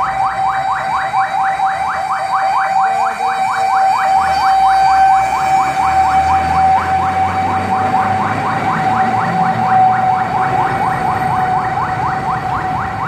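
Fire truck electronic siren in a fast yelp: quick rising sweeps, about six a second, over a steady high tone. A low truck-engine rumble swells in the middle.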